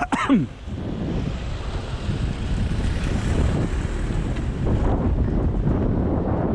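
Wind buffeting the microphone on a moving bicycle: a steady low rumble. Right at the start there is a brief sharp sound that falls in pitch.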